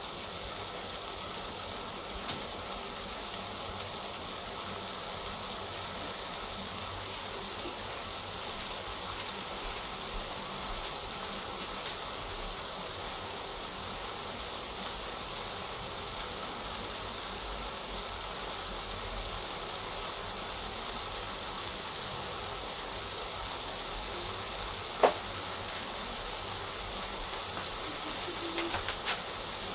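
Chicken pieces and carrot strips sizzling in a metal pot on the stove, a steady hiss. There is one sharp click late on and a few small clicks near the end.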